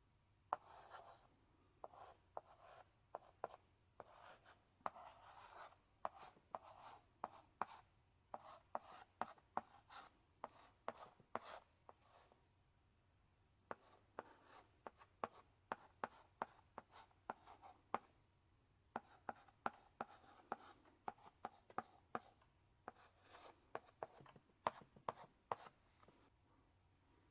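Chalk in a chalk holder writing on a blackboard: many sharp taps as the chalk strikes the board, with short scratchy strokes between them, in runs broken by brief pauses.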